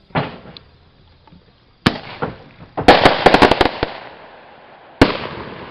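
Fireworks going off: a sharp bang just under two seconds in, a rapid string of cracks about a second later, and another sharp bang near the end, each fading out with an echo.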